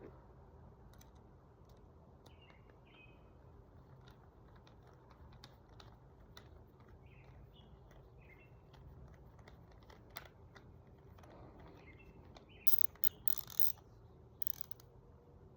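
Faint clicks and light metallic taps of a sliding-door lock's small metal plates and screws being handled and fitted, with a cluster of louder clicks near the end.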